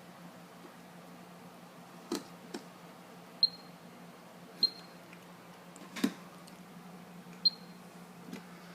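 A moisture meter giving three short high beeps, each a second or more apart, among a few clicks and taps as it is handled against the wood framing. A steady low hum runs underneath.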